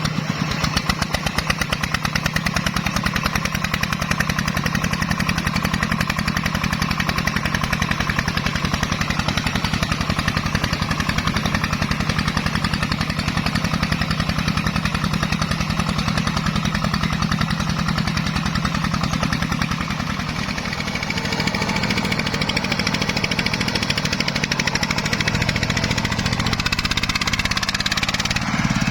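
Single-cylinder diesel engine of a Vietnamese công nông farm truck running with a fast, even chugging. About twenty seconds in its pace shifts and it briefly runs a little quieter before picking up again.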